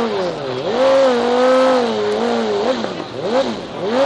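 Car engine revving hard, its pitch climbing and then held high with small wobbles before several quick drops and recoveries near the end, as the throttle is lifted and reapplied.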